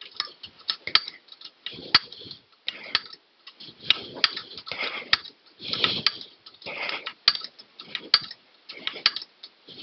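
Open-end wrench clinking on a small bolt and nylon lock nut as it is worked round a bit at a time in a tight space: irregular sharp metal clicks, with a few short scraping rustles between them.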